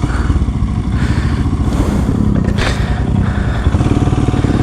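Royal Enfield Himalayan's 411 cc single-cylinder engine running as the motorcycle rides over rough off-road trail, with a brief clatter about two and a half seconds in.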